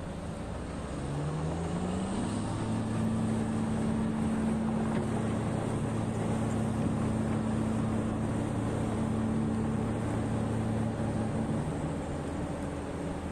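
Large diesel engine of heavy mining equipment revving up about a second in, holding at high revs for several seconds, then easing back near the end.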